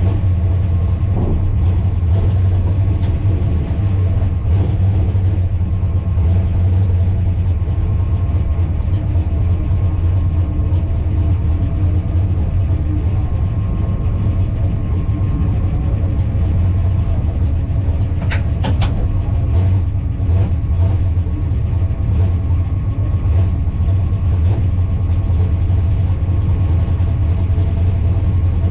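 A motor vehicle's engine running with a steady low rumble, with a few brief clicks about two-thirds of the way through.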